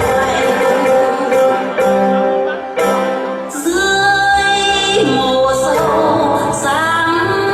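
A woman singing a slow song with a wavering, held voice over an instrumental backing track, with long sustained notes about four seconds in and again near the end.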